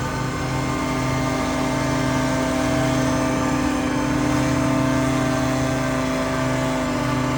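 Small gas engine of outdoor power equipment running steadily at a constant speed, a steady hum with many overtones.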